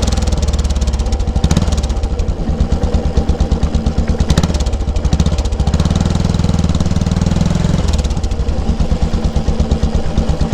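Yamaha SR500's single-cylinder four-stroke engine running under way, with a rapid, even exhaust pulse. The engine speed shifts in steps a few times.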